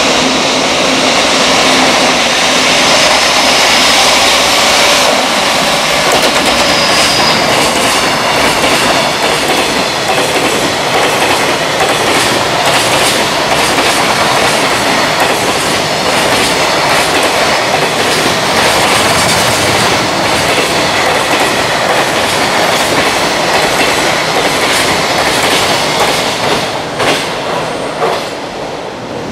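Long freight train of container wagons passing through at speed, its wheels clattering over the rail joints in a steady clickety-clack. The noise falls away over the last few seconds as the end of the train goes by.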